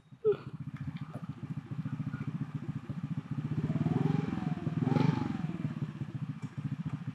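Small single-cylinder go-kart engine (420cc Predator) idling with a fast, even putter, swelling a little about four to five seconds in. A faint whine rises and falls over it around the same time.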